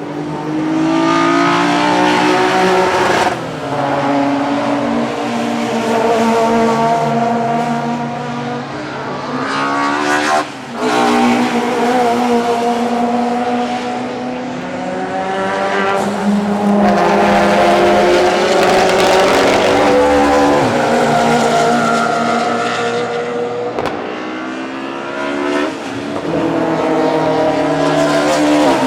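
Historic DTM touring cars racing past in a bunch, several loud engines overlapping. Their engine notes climb, then drop sharply several times as the drivers shift up through the gears.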